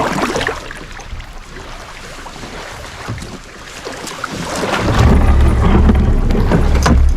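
Wind buffeting the microphone, a steady noise that swells into a loud low rumble about five seconds in.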